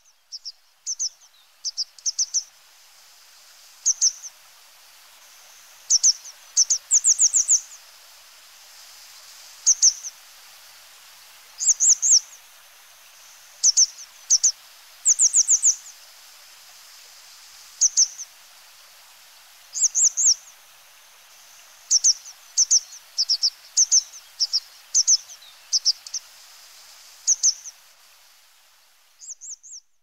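A small bird's high-pitched chirping calls, single notes or quick runs of two to five, every second or two, over a steady hiss.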